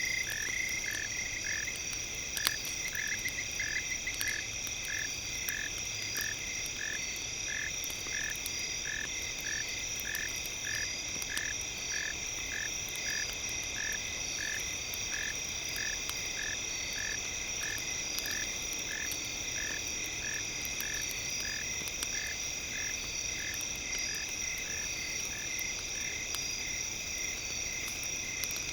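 A frog calling in a steady series of short croaks, about one and a half a second, over a steady high-pitched insect-like drone. Faint scattered crackles of a campfire run underneath.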